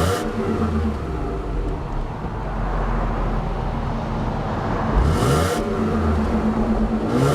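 2001 Mercury Cougar's 2.5-litre Duratec V6 and exhaust idling, with a quick throttle blip about five seconds in and another at the very end, the pitch rising sharply each time and then falling back to idle.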